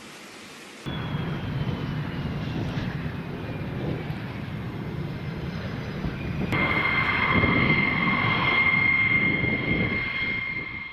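Jet aircraft engine noise, after about a second of faint hiss: a high whine that slowly falls in pitch, then, about six seconds in, an abrupt change to a louder, steadier high-pitched whine.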